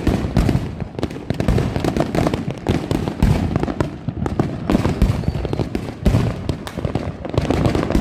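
Dense New Year's Eve fireworks and firecrackers: many sharp cracks and bangs in quick irregular succession over a continuous low rumble of distant bursts.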